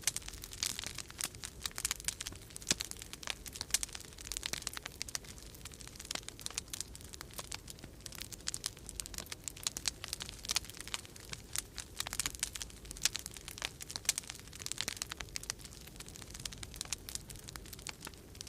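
Wood fire in a fireplace crackling: a dense, irregular run of sharp pops and snaps, with a low steady rumble of storm wind underneath.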